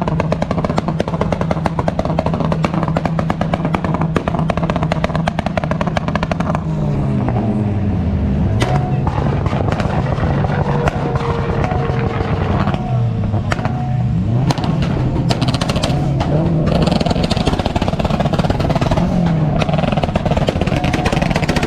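Modified car engines idling and being revved, the pitch dropping and climbing several times, over a dense crackle of exhaust pops and bangs.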